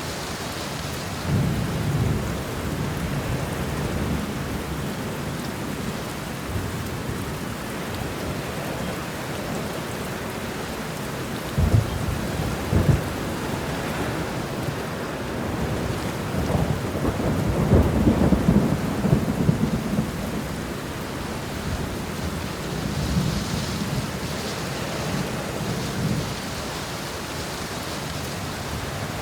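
Steady heavy rain with rolling thunder. Two sharp cracks about a second apart come near the middle, a longer rumble swells and fades a few seconds later, and fainter rumbles follow toward the end.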